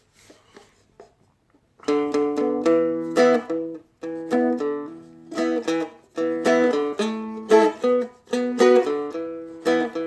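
Seagull Merlin, a small four-string fretted dulcimer-style instrument, strummed in a rhythmic blues pattern. A few soft clicks come first, and the strumming begins about two seconds in, in short phrases with brief breaks between them.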